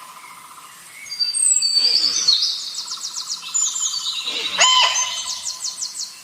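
Birds calling: a mix of high chirps and fast trills, and a loud clear call that breaks in about four and a half seconds in.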